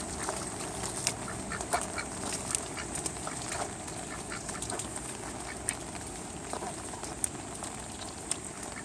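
Ducks quacking, mostly in the first few seconds, over a steady hiss of rain with scattered sharp ticks throughout.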